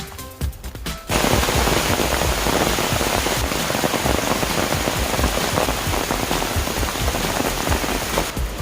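Brief background music, then about a second in a loud, steady rush of falling and splashing water cuts in and continues, before the music returns near the end.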